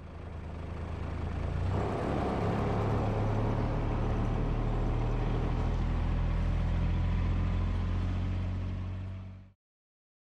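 Steady low rumble of a vehicle running, fading in at the start and fading out about nine and a half seconds in.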